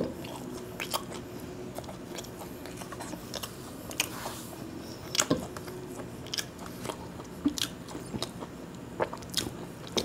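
A person chewing and biting a mouthful of khichuri and fried fritters close to a lapel microphone: irregular sharp crunches and wet mouth clicks.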